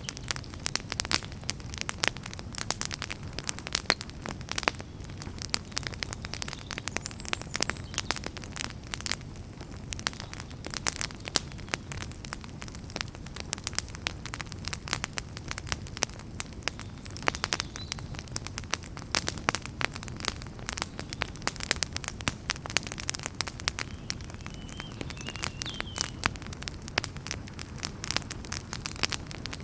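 Wood fire crackling: dense, irregular pops and snaps of burning firewood over a steady low rumble of the flames, with a few faint, brief high whistles.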